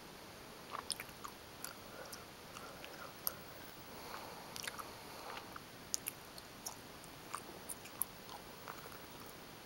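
A person chewing gummy bears: irregular soft mouth clicks and smacks, sparser near the end.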